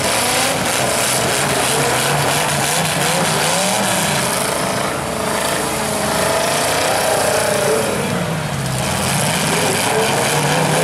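Demolition derby cars' engines revving and running hard, their pitch rising and falling repeatedly.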